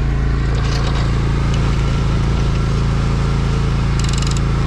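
John Deere Z530R zero-turn mower's engine running at a steady speed. A few light clicks come in the first second, and a brief rapid rattle comes about four seconds in.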